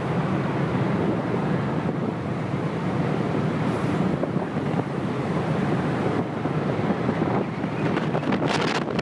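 Tornado-force wind blasting the microphone: a steady, dense rush of wind noise, with a few sharp crackles near the end.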